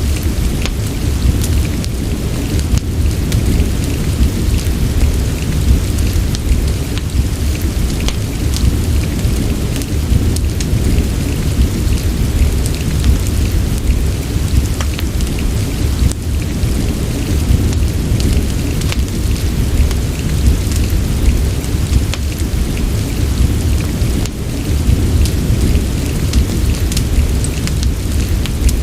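Steady rain with a deep, constant low rumble, mixed with scattered sharp ticks and crackles of a wood fire in a fireplace.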